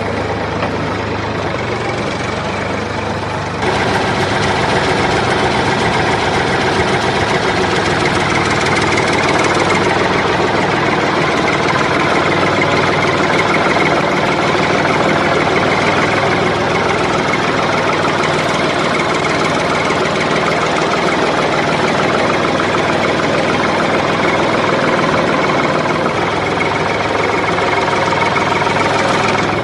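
An engine running steadily, with a sudden jump in loudness about three and a half seconds in that then holds.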